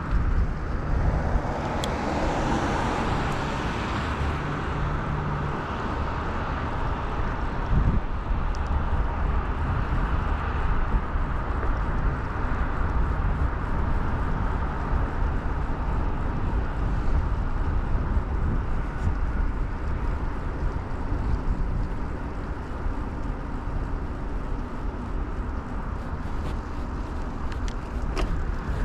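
Riding noise of a 2000 Kona Blast bicycle heard from a chest-mounted camera: steady wind and road rumble, with road traffic going by. A louder swell comes about a second in and fades after a few seconds, like a car passing.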